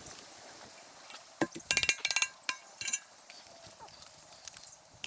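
A quick cluster of sharp clinks and clatters, hard objects knocking together with a brief ringing, about a second and a half to three seconds in.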